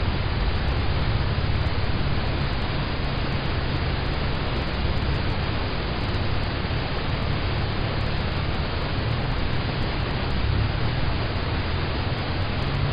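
Steady rain falling on a car, heard from inside the cabin: an even hiss with a deep low rumble underneath.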